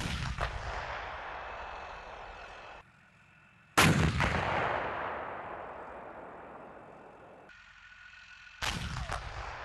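Three heavy gun blasts from Leopard tank main guns firing in live-fire training: one right at the start, one about four seconds in and one near the end. Each blast is followed by a long rolling echo that fades over several seconds, and the middle one is the loudest.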